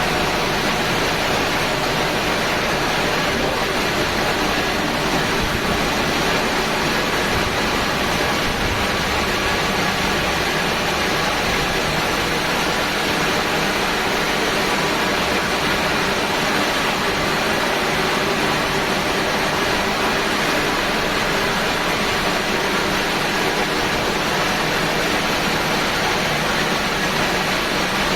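Steady, loud rushing noise of a touchless automatic car wash machine at work, from its high-pressure spray or its drying blower.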